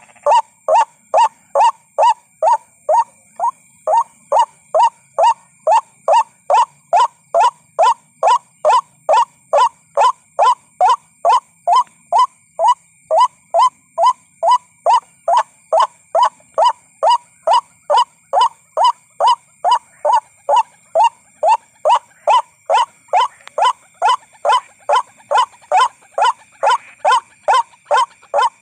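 White-breasted waterhen call used as a trapping lure: a short, falling 'kru-ak' note repeated steadily and monotonously about two and a half times a second. Faint steady high-pitched tones run underneath.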